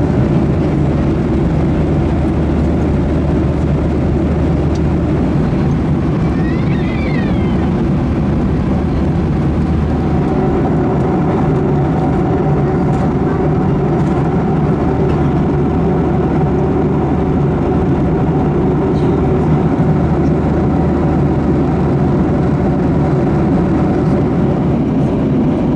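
Steady cabin noise of a Boeing 737-800 in cruise, heard from inside the cabin: a constant rush of airflow with the low, even hum of its CFM56-7B turbofan engines.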